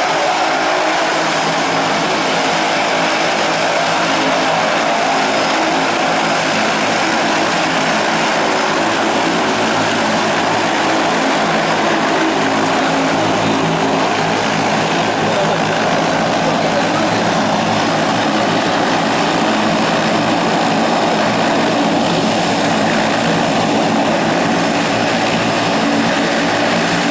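Turboprop seaplane air taxi's engines and propellers running at steady power, a loud, unchanging drone with steady tones in it.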